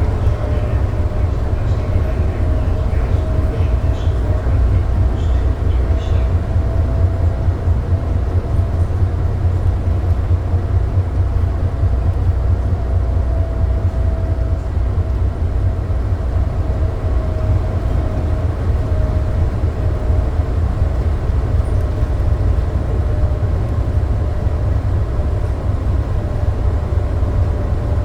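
SFO AirTrain people-mover car running, heard from inside the car: a steady low rumble with a faint motor whine that drifts slightly up and down in pitch.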